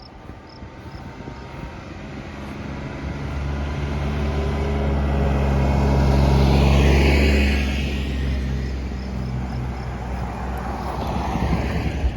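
An engine drone passing by: it builds steadily, is loudest about seven seconds in, drops in pitch as it passes, then fades. Faint regular high ticks run under it.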